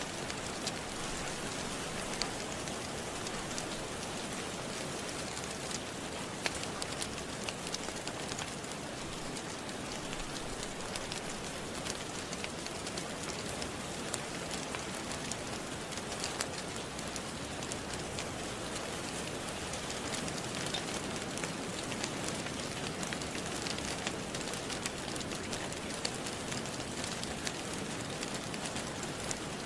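Steady rain falling, an even hiss, with small sharp crackles of a wood fire scattered through it.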